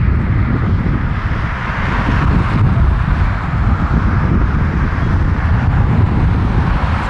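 Heavy wind buffeting on the microphone over a steady broad roar from a Boeing 787-9's jet engines as it lands.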